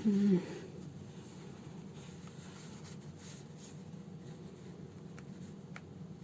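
A short hummed 'mm' from a person at the start, then faint scratchy rubbing of hand sewing: needle and thread drawn through a fabric slipper, with a couple of faint ticks near the end, over a steady low room hum.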